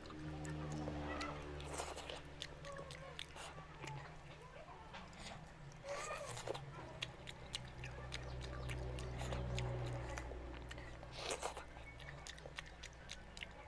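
Wet, open-mouthed chewing and lip-smacking of a man eating oily mutton head curry and rice by hand, with many sharp mouth clicks and low hums now and then.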